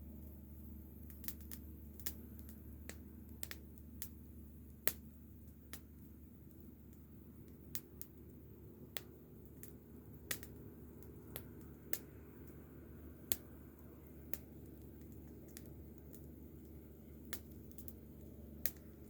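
Wood fire crackling: sharp, irregular pops and snaps at uneven intervals, about one a second, over a low steady hum.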